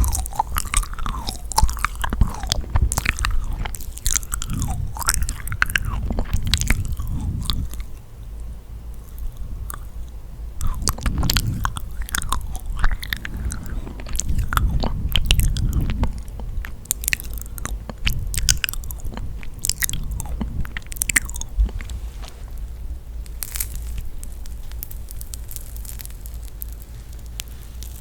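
Close-miked chewing and biting of yakgwa, a sticky honey-soaked Korean fried cookie: a run of small mouth clicks and sticky smacks, dense for the first several seconds, then sparser.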